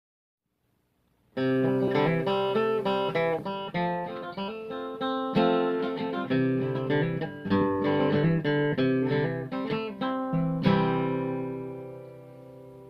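Opening music: solo acoustic guitar playing a picked melody, ending on a chord that is left to ring and fade.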